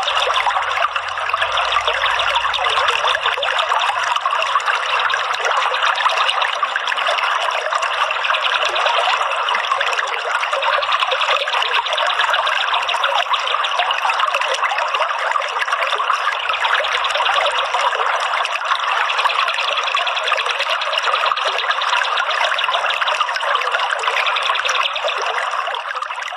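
Running water trickling and splashing steadily, a water-sound recording of the kind played as therapy audio for caged songbirds.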